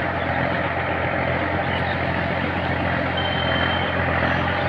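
Tractor engine running steadily under a constant drone. A short, thin high tone sounds briefly about three seconds in.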